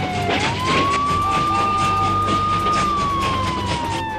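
A wailing siren: it sweeps up quickly just after the start, holds its high pitch for about two and a half seconds, then slides slowly down. Background music with a steady beat plays under it.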